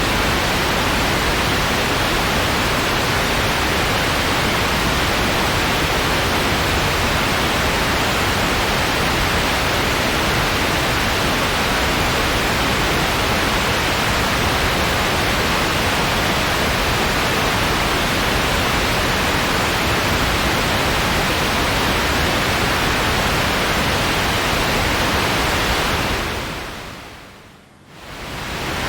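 Steady white noise, an even hiss. About twenty-six seconds in it fades down, almost drops out, then fades back up near the end, as at a loop point in the track.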